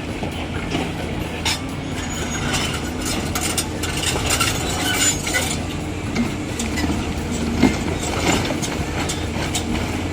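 Heavy machinery running steadily, with scattered metallic clanks and knocks throughout, thickest a few seconds in.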